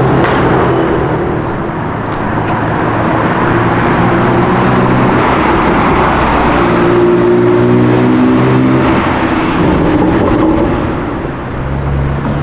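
A performance car's engine running loud in street traffic, its pitch rising and falling several times as it is revved and accelerated.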